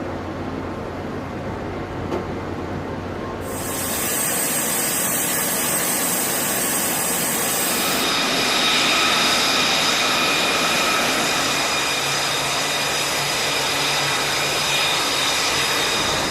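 Loud, steady machinery noise. About three and a half seconds in, high-pitched whining tones join it, and they shift to a different set of steady whines about eight seconds in.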